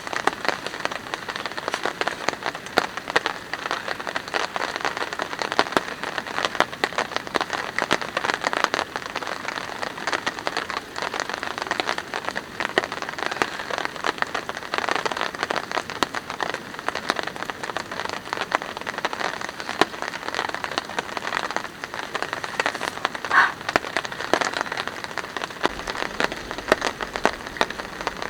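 Steady rain falling, with countless individual drops striking a surface.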